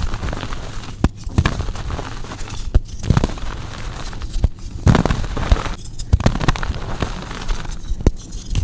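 Blocks of gym chalk being crushed and crumbled by hand: dry crunching and crackling, with a run of sharp snaps and several heavier crunches as pieces break apart.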